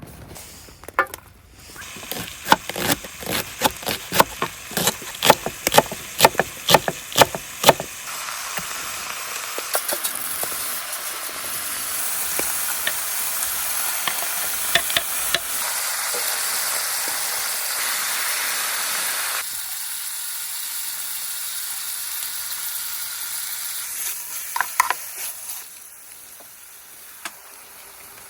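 Food frying on a hot pan: first a quick run of sharp clicks and scrapes from a cooking utensil, then a steady sizzle that drops down partway through and fades near the end.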